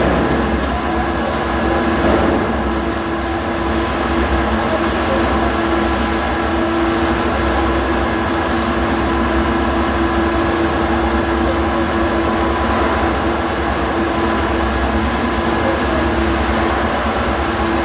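MIG welding: a steady, dense crackling hiss from the arc over a constant hum.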